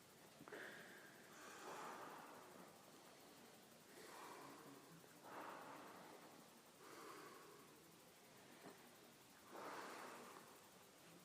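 Faint, rhythmic deep breathing, about six drawn-out in and out breaths, in Wim Hof method breathing rounds.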